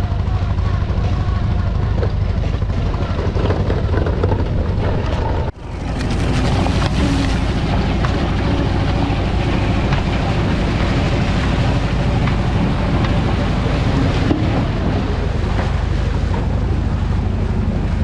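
Enduro motorcycle engine running while riding off-road, with wind rumbling on the microphone. The sound briefly cuts out about five and a half seconds in.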